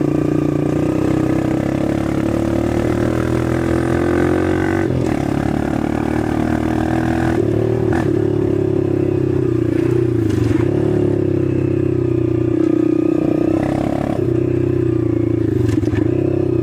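Engine of an 8-horsepower 125 cc dirt bike running under throttle in third gear. Its pitch drops and climbs back three times as the throttle is rolled off and opened again.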